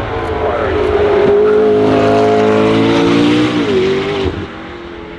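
McLaren P1's twin-turbo V8 hybrid powertrain accelerating past, its engine note climbing steadily. Near the end the note dips briefly, then fades as the car pulls away.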